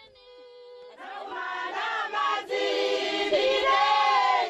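A group of voices singing together in chorus, coming in about a second in after a faint held note.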